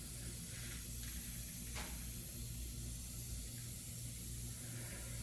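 Quiet room tone: a steady low electrical hum under an even hiss, with one faint click about two seconds in.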